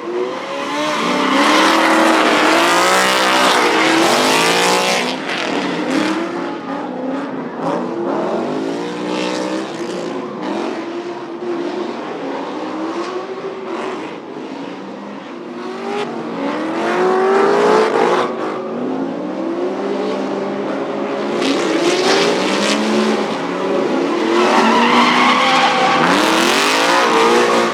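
Drift car engine revving up and down again and again while its tires squeal and skid through a drift run.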